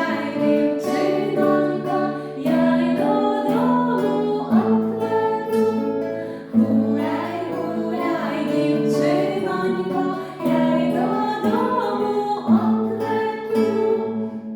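Female voices singing a Ukrainian folk song in a slow, steady melody to acoustic guitar accompaniment.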